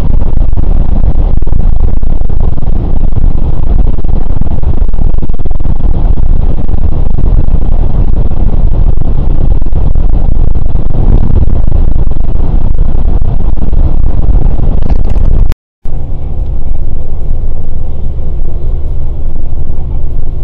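Loud, steady low rumble of a Scania K410 coach on the move. About three quarters of the way through it drops out to silence for an instant, then carries on slightly quieter.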